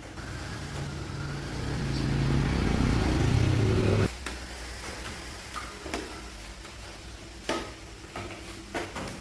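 A motor running, growing louder over about three seconds, then cutting off abruptly about four seconds in; a few sharp knocks and clicks follow.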